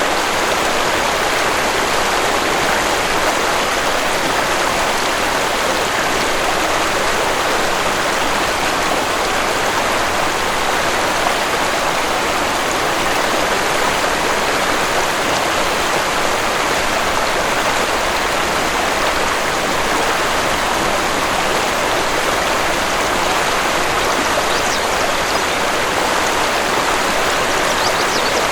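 Waterfall rushing: a steady, even wash of falling water that holds at the same level throughout.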